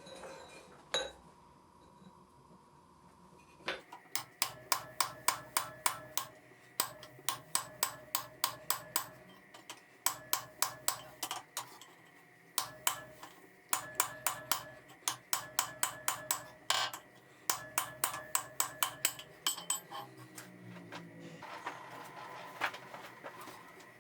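Hammer blows on a square-faced punch driving a depression into the end of a half-inch square steel bar. The strikes are sharp and ringing and come in quick runs of about four a second with short pauses, starting about four seconds in.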